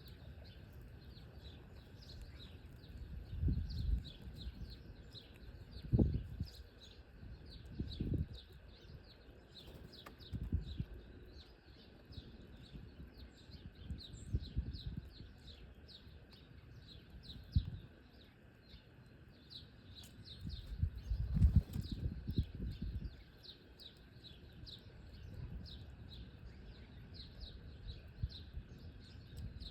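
A flock of small birds chirping steadily, many short high chirps overlapping. Every few seconds there are low fluttering bursts of wingbeats as birds take off and land, the loudest about two-thirds of the way through.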